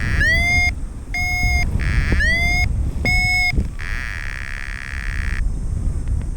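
Paragliding variometer giving its climb tone: four short electronic beeps about one a second, then a longer steady buzzing tone, over wind rushing on the microphone. The beeping signals the glider being lifted in rising air while the pilot tries to come down to land.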